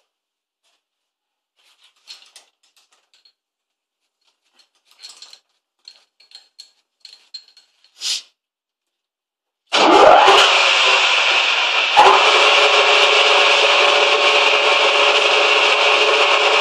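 Faint scattered clicks, then about ten seconds in a manual lathe starts up with a short rising whine and runs with a loud, steady noise, with one sharp knock a couple of seconds later.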